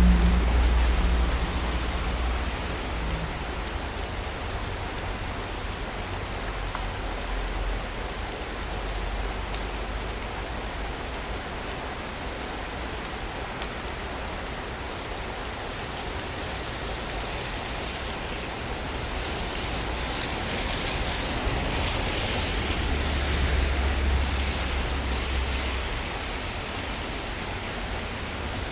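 Steady rain falling in a city. A low rumble fades out over the first few seconds and returns for a few seconds about three-quarters of the way through. The hiss grows brighter and louder for a few seconds around two-thirds of the way in.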